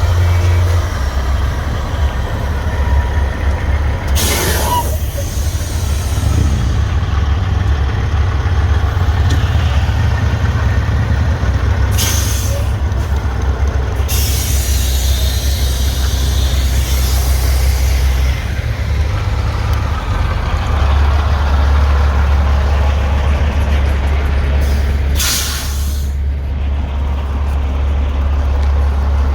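Diesel big-rig trucks idling with a steady low rumble, broken by several loud air-brake hisses: one about four seconds in, one near twelve seconds, a longer one from about fourteen to eighteen seconds, and one near twenty-five seconds.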